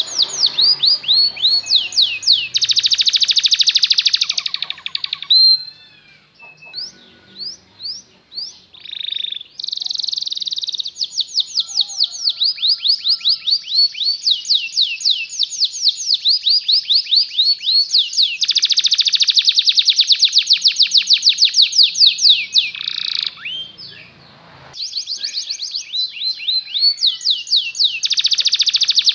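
Canary singing a long song of fast trills, each tour a rapid run of repeated high notes at a changing speed. Between about six and ten seconds in it drops to a quieter stretch of scattered chirps, and there is a short break near the end before the trilling resumes.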